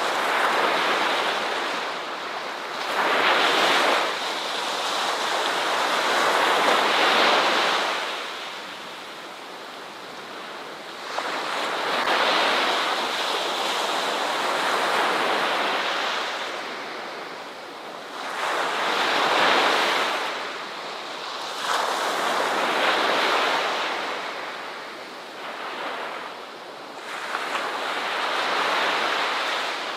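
Ocean surf washing onto a beach, the noise of the waves swelling and fading in irregular surges every few seconds.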